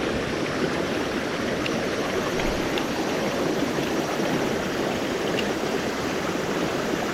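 Mountain stream water rushing and splashing over rocks, a steady even noise.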